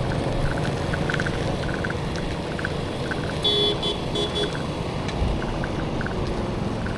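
Road traffic running steadily, engines and tyres, with a vehicle horn tooting twice in quick succession about halfway through.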